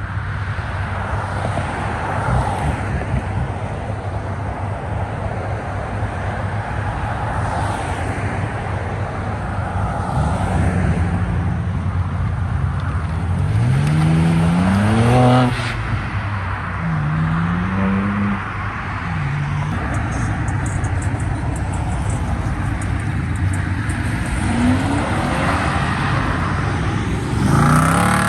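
Loud car engine exhaust rumbling at idle, revved several times: one long rising rev about halfway through, a couple of short blips after it, and another rev near the end.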